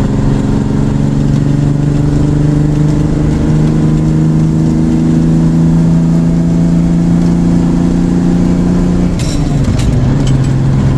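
Diesel engine of an International truck pulling under load, its pitch rising slowly as the truck gathers speed. About nine seconds in the engine note breaks and drops to a lower pitch with a few sharp clicks, as in a gear change.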